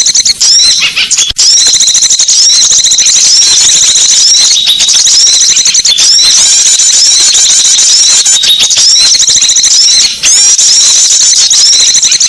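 Bird-luring recording of small songbirds: a loud, dense stream of rapid high-pitched chirps and twitters, with short breaks about a second in and near the end.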